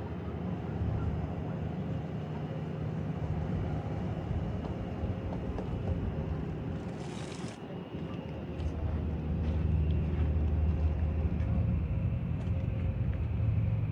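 A vehicle engine running with a steady low rumble that gets louder about eight and a half seconds in. There is a short hiss about seven seconds in.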